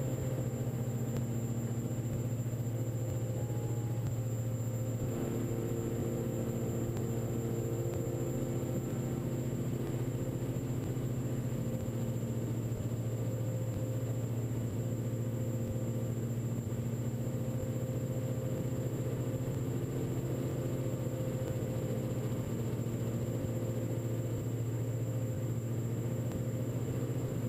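Steady drone of a Diamond DA42 NG's two Austro turbodiesel engines and propellers at climb power just after takeoff, a deep even hum with faint steady tones above it.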